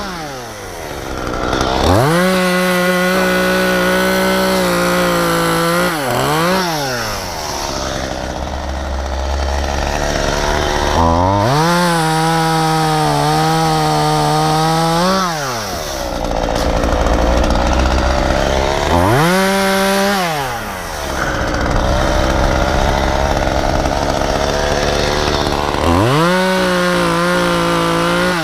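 Efco MTT 3600 top-handle chainsaw idling and repeatedly throttled up to a steady full-speed pitch for a few seconds at a time, four main times with a short blip after the first, as maple tops are cut.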